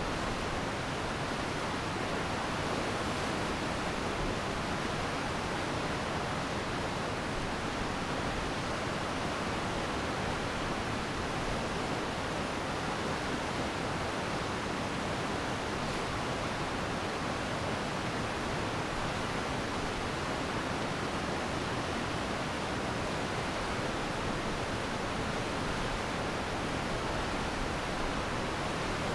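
Glacial meltwater stream rushing steadily, a dense, even water noise with no pauses.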